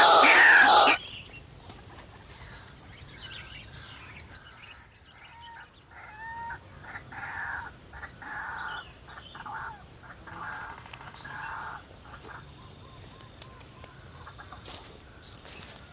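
A loud sound cuts off about a second in. It is followed by a run of harsh, repeated calls of a white-breasted waterhen (ruak-ruak), with a few sharp clicks near the end.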